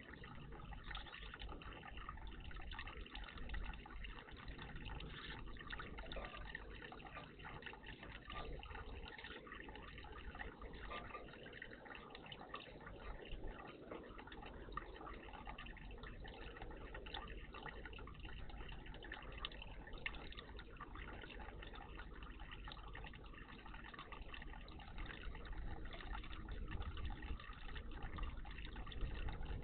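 Water trickling and dripping steadily in a garden bird bath.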